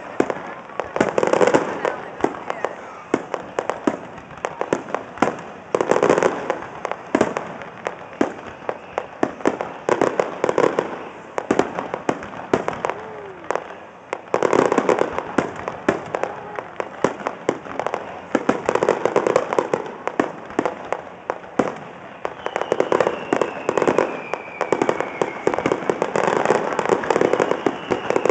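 Fireworks display: a dense, continuous crackle and popping of firework bursts that swells into louder clusters every few seconds. Near the end a thin whistle falls slowly in pitch.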